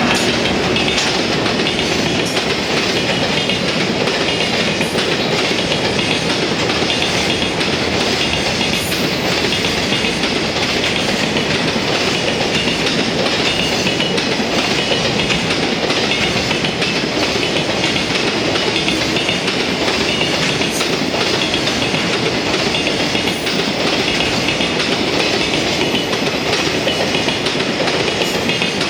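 A freight train hauled by an EF210 electric locomotive running past at speed. Its wheels make a steady rumble on the rails, with a clickety-clack as the wagons cross rail joints.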